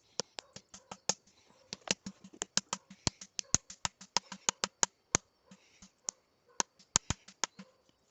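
A rapid, uneven series of sharp taps or knocks, about five a second, with a short break about five and a half seconds in.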